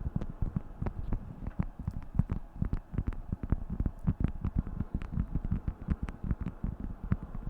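Beeswax food wrap being crinkled and handled: a dense, uneven stream of crackles and soft thuds.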